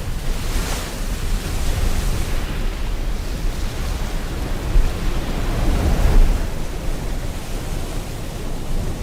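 Steady rush of rain and ocean surf, swelling and easing; a wave surges to its loudest about six seconds in.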